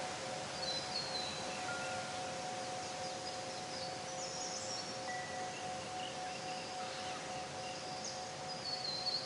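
Wind chimes ringing lightly, a scatter of short high notes over two steady low held tones.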